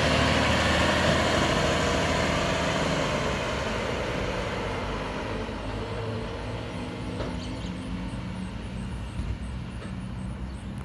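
Mack LEU garbage truck's diesel engine running as the truck moves off, its sound fading steadily.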